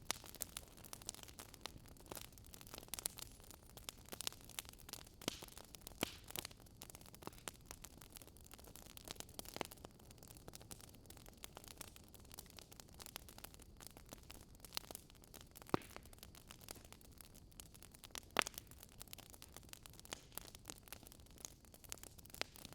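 Wood fire crackling: irregular sharp pops and snaps, a few louder ones, over a soft hiss.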